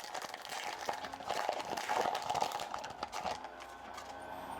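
Foil wrapper of a trading-card pack crinkling and crackling as it is torn open and handled. The irregular crackles and clicks stop about three seconds in, leaving a faint steady hum.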